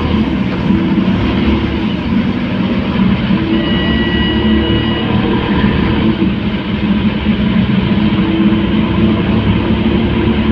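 Scania K230UB city bus on the move, its diesel engine and drivetrain running with a steady low drone. A brief high beep sounds about three and a half seconds in and lasts about a second and a half.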